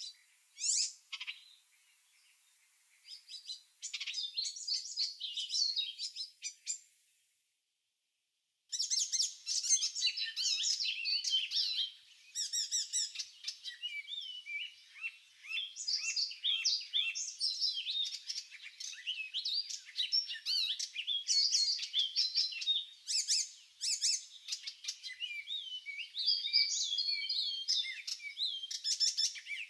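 Small songbirds singing and chirping, several at once, in quick high warbles and trills. The sound drops to total silence for about a second and a half a little past the middle of the first third, then comes back as a denser chorus.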